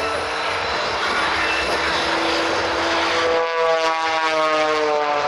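Propeller-driven aerobatic airplane flying its routine. About three seconds in, its engine note turns into a strong, buzzing tone that slowly drops in pitch as the plane passes.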